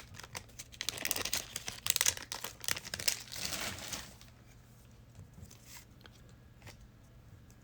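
Trading-card pack wrapper crinkling and tearing as the pack is ripped open, busy for about four seconds. It then goes quiet apart from a few light clicks of cards being handled.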